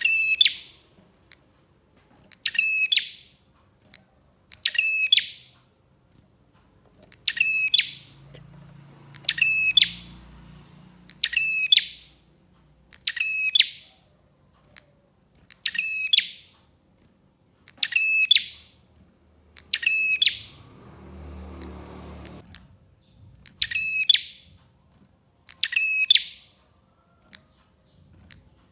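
A prinia (prenjak) giving its short, sharp, buzzy call over and over, about once every two seconds. A brief low rumble sounds in the background about two-thirds of the way through.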